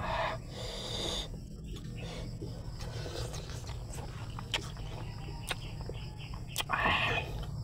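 Close-up eating sounds of a man eating rice and squid adobo by hand: wet chewing and many small lip-smacking clicks, with two short breathy puffs, one right at the start and one near the end.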